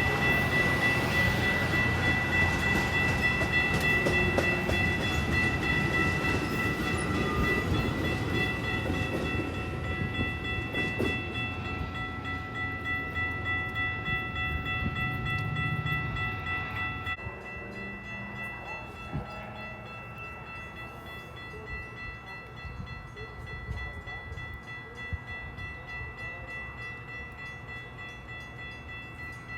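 A train passing close by, its rumble and wheel noise loud at first and then dropping off sharply about 17 seconds in as it moves away. Steady high ringing tones sound over it throughout.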